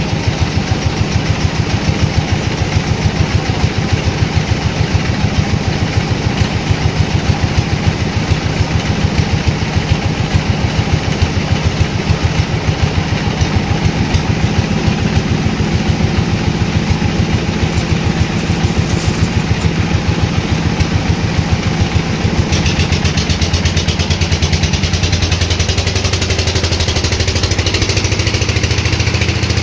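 Sawmill machinery running with a steady, fast engine pulse. About three-quarters of the way through, the sound changes: more hiss on top and a deeper hum underneath, as if the saw's load has changed.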